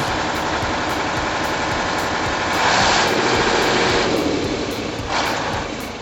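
Heavy machinery engine running, with a louder rush of noise from about two and a half to four seconds in and a brief one near five seconds.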